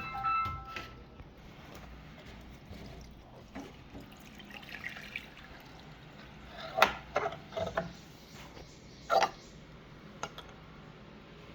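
Water trickling and dripping, with a few sharp knocks about two-thirds of the way through.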